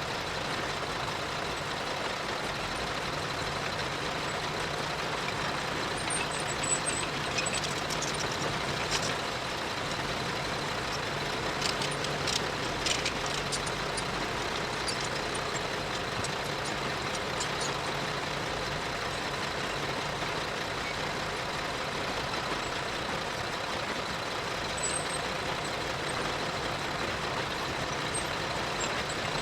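Heavy earthmoving machinery running steadily, its engine a constant drone, with short bunches of sharp metallic clanks and clicks a quarter of the way in, again just before the midpoint, and briefly near the end.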